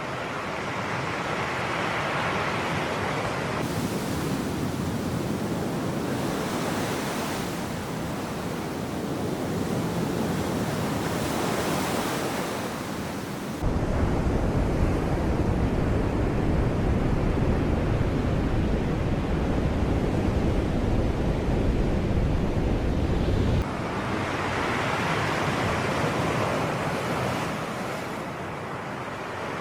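Sea waves washing in, the surf hiss swelling and falling every few seconds. A deep rumble cuts in abruptly about halfway through and stops just as suddenly some ten seconds later.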